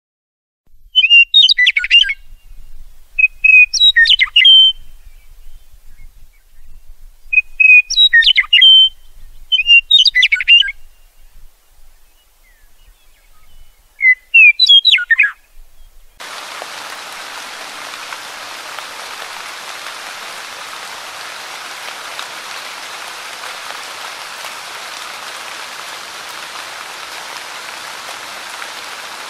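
A songbird sings five short chirping phrases of about a second each, with pauses of silence between them. About halfway through, a steady hiss of rushing water, like a stream over rapids, starts abruptly and holds even.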